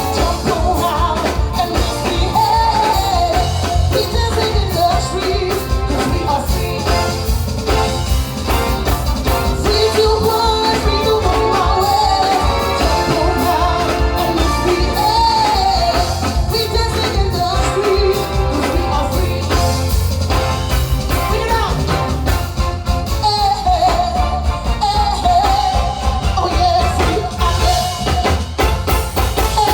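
Live soca music played loud, with a heavy steady bass beat and a woman singing over the band.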